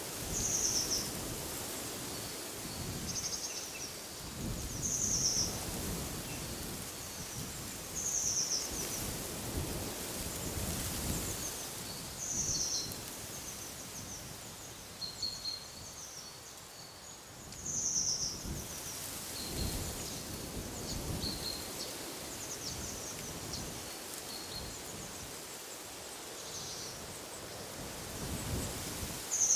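Wind gusting in the trees, with a low rumble that rises and falls, while a bird repeats a short high call every two to five seconds.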